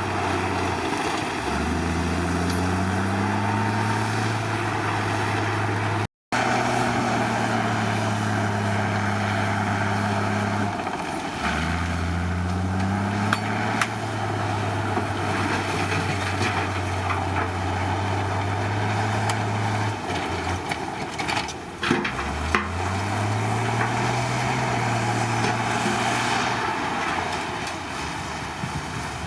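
Komatsu D53 crawler bulldozer's diesel engine working under load. Its pitch dips and climbs again several times as the load changes, with a few sharp metallic knocks a little past the middle.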